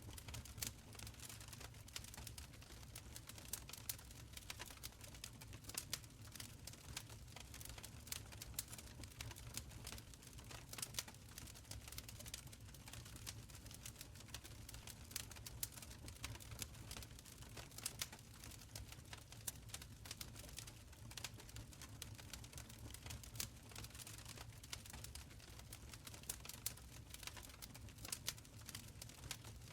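Wood fire burning in an open stone fireplace, crackling with many small irregular pops over a soft, steady low rumble of the flames.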